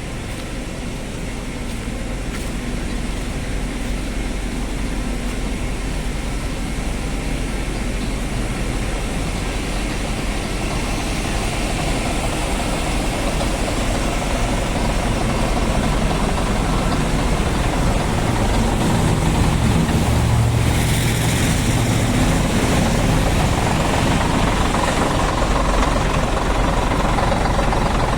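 Scania truck engine running steadily, growing gradually louder, with a brief hiss about two-thirds of the way through.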